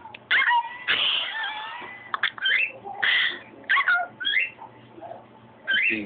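A caged pet bird calling: a string of short chirps and quick rising and falling whistles, with one longer steady whistle in the first two seconds.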